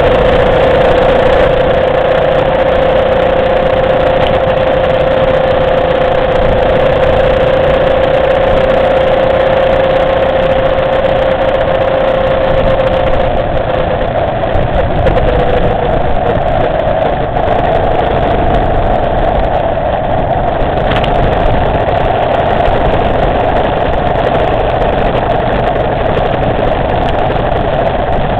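Motorcycle engine running at a steady pitch under heavy wind and road noise while riding. About halfway through, the engine note shifts slightly higher.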